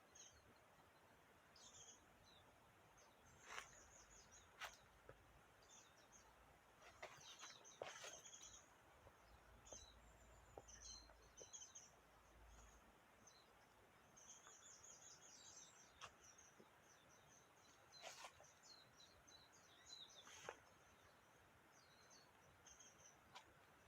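Faint, scattered high-pitched bird chirps and calls over quiet outdoor background, with a few short sharp calls or clicks standing out.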